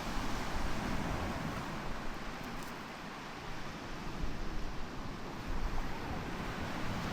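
Steady wind and surf noise at a beach, with wind rumbling unevenly on the microphone.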